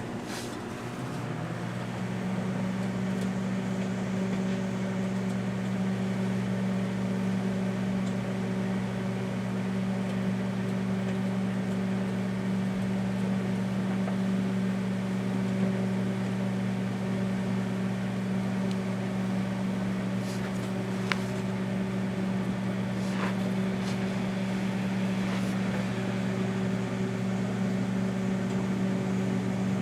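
Daewoo microwave oven running with a steady electrical hum, which settles in over its first couple of seconds after starting. A few faint ticks come in the second half as the bar of soap heats inside.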